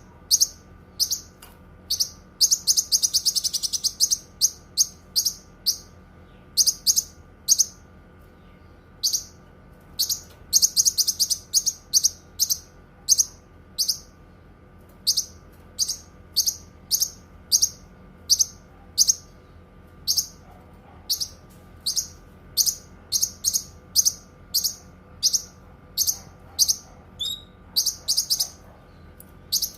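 Cucak kinoi singing: a busy run of short, high chirps and quick trill phrases, with brief pauses between bursts, over a faint steady hum.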